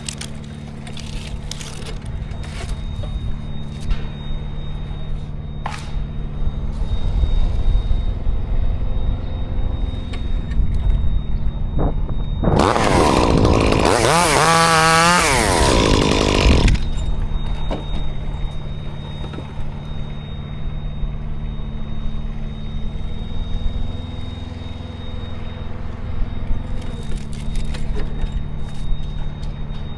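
Chainsaw revving and cutting for about four seconds midway, its pitch wavering and dropping under load, over an engine running steadily.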